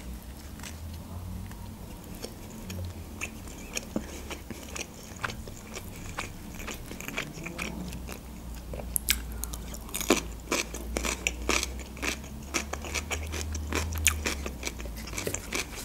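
Close-miked mouth sounds of a person biting and chewing lavash flatbread and fresh cucumber, with crisp crunchy clicks that grow denser and louder about nine seconds in.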